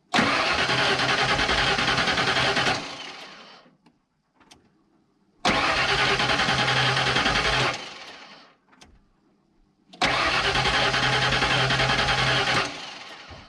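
A 1992 Ford F150's 302 V8 being cranked by the starter three times, each try about two and a half seconds long and winding down as the key is released, without the engine catching. It cranks strongly on a brand-new battery.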